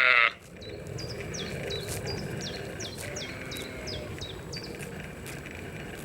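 A loud bleat cuts off in the first moment. Then a bird gives a quick run of about ten high chirps, each dropping in pitch, at roughly three a second, over a steady outdoor background hiss.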